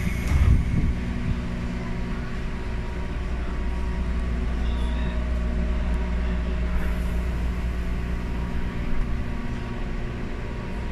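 Interior running noise of a Ryutetsu 5000 series (ex-Seibu new 101 series) electric train car under way: a steady low rumble with a hum, and a few short knocks of the wheels over rail joints.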